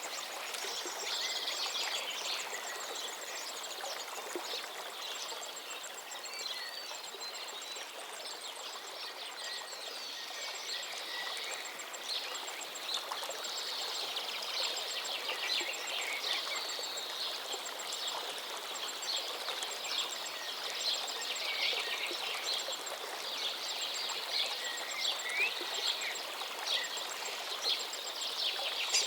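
River water flowing steadily, with many songbirds chirping and trilling over it throughout. A faint, high, rapidly repeating ticking runs underneath.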